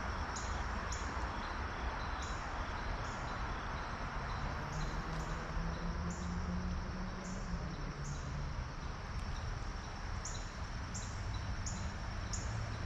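Outdoor creek ambience: a steady rush of flowing water, with a short high chirp repeating about twice a second throughout.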